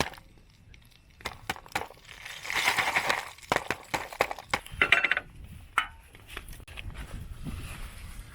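A run of clinks, knocks and crunches from camp gear or wood being handled, with a louder crunching stretch about two and a half seconds in and another sharp burst around five seconds.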